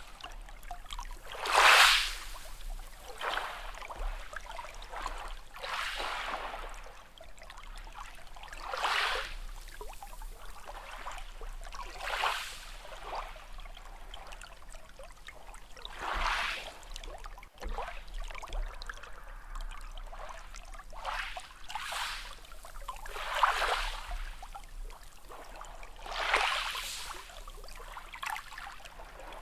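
Small sea waves lapping and splashing, one swell about every two to three seconds.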